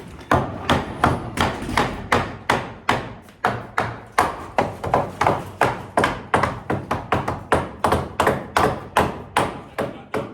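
Hammer blows on a wooden 2x6 framing board, knocking it into place: a steady series of sharp strikes, about two or three a second.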